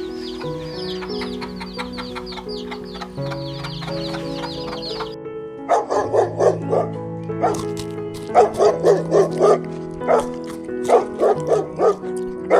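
Small birds chirping rapidly and high for about five seconds, then a dog barking in quick runs of several barks, over soft background music.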